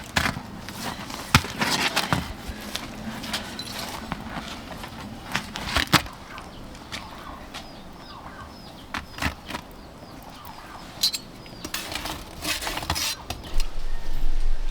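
Irregular clicks, knocks and clinks of things being handled, with a few short bird chirps; a low steady hum comes in near the end.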